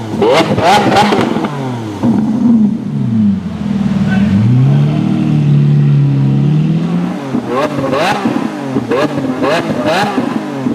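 Sports car engine revving hard: a string of quick revs, each rising sharply in pitch, then a slower fall in pitch that climbs back and holds for a couple of seconds, then more quick revs near the end.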